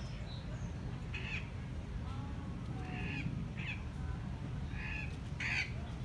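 Andean cock-of-the-rock giving about five short calls spread through a few seconds, over a steady low background rumble.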